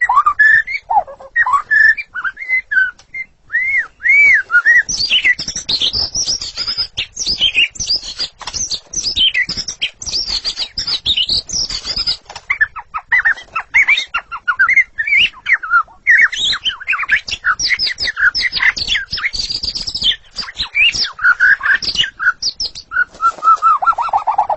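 White-rumped shama (murai batu) singing a long, varied song of whistled glides and quick chirping notes, breaking near the end into a fast run of repeated lower notes.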